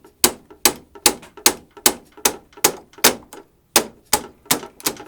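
Danby dehumidifier's bucket-out alarm beeping, a steady train of short, sharp beeps about two and a half a second.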